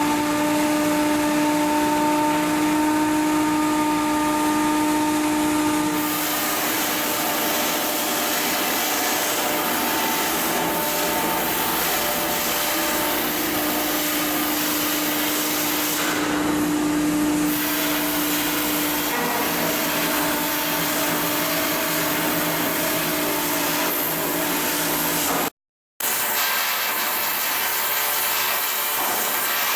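Shipyard machinery and tool noise: a steady, loud mechanical drone with a humming tone running through it, breaking off for a moment near the end.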